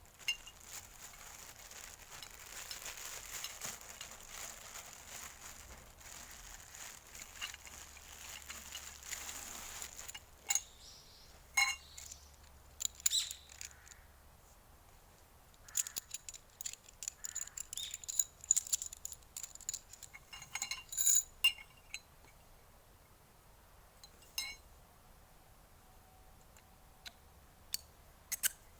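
Steady hiss for about the first ten seconds, then a scattered series of metallic clinks and taps, several ringing briefly: light metal parts knocking together as they are handled.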